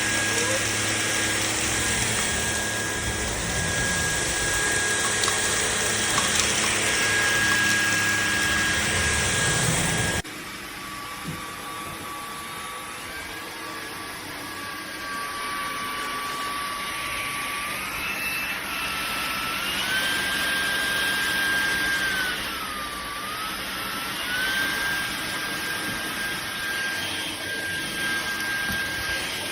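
Levoit LVAC-200 cordless stick vacuum running with a steady high whine over the rush of suction. About ten seconds in it drops suddenly to a quieter run with a lower whine, which later steps and glides up and down in pitch several times.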